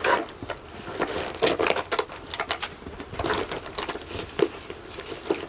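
Snowshoe bindings and boots being handled and fitted together: an irregular run of clicks, taps and crunches.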